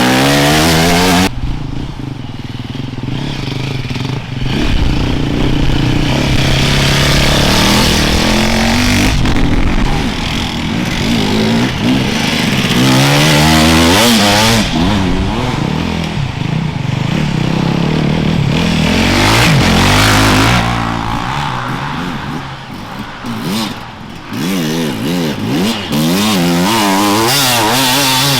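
Off-road enduro motorcycles riding past one after another, their engines revving up and down hard as the riders work the throttle and gears. The sound swells as each bike comes close and fades as it goes.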